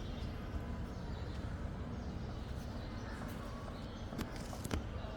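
Steady low rumbling noise, with two sharp clicks near the end.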